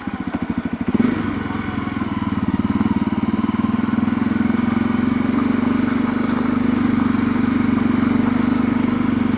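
Motorcycle engine running at low revs, its firing pulses distinct at first, then steadier and a little louder from about a second in.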